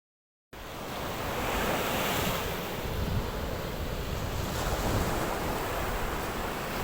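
Sea waves washing on a sandy beach, with wind buffeting the microphone in a low rumble; the sound starts about half a second in.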